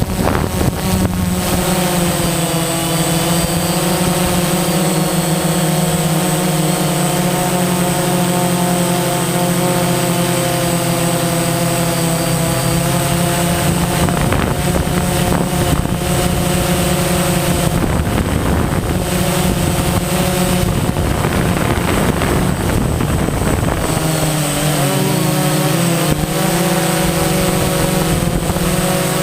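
DJI Phantom quadcopter's electric motors and 9-inch propellers whirring in flight: a steady hum whose higher tones waver up and down as the throttle changes, with a thin high whine above it.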